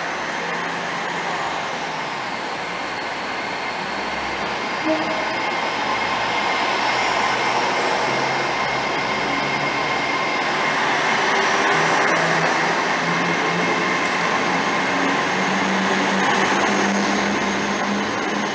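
TransPennine Express Class 802 bi-mode train pulling out along the platform. Its running noise builds steadily, with a constant high tone and a lower hum that rises in pitch over the second half as it gathers speed.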